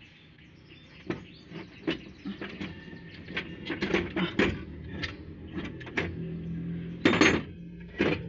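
A run of irregular clanks and knocks, like metal tools and engine parts being handled and set down, getting busier and louder after the first few seconds, with a louder clatter near the end.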